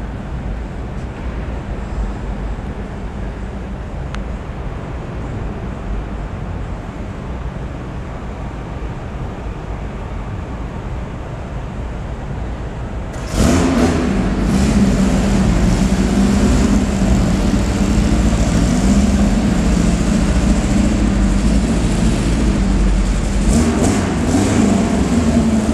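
Steady low hall rumble, then about halfway a much louder car engine starts up abruptly and keeps running, its pitch wavering, until the end.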